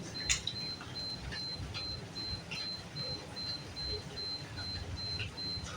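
Rain at night: scattered drips tapping over a low, steady rumble. A thin, high chirp pulses evenly about two to three times a second throughout.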